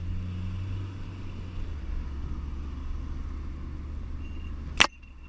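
A car engine runs with a steady low hum, heard from inside the cabin. A single sharp click comes near the end.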